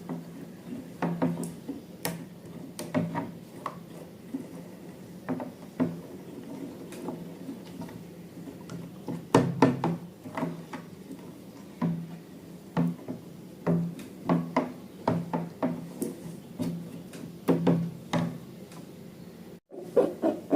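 Slime being worked by hand: an irregular run of sticky clicks and pops, one to three a second, with a brief gap near the end.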